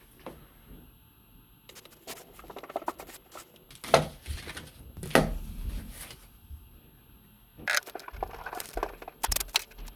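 Irregular handling noise: scattered clicks, taps and rustles of a small object being picked up, turned and set down on a work surface, the loudest a sharp knock about four seconds in, with a busier run of taps near the end.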